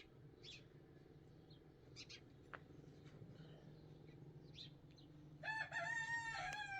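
A rooster crowing once near the end, a long call that falls in pitch as it trails off. A few faint short chirps come before it.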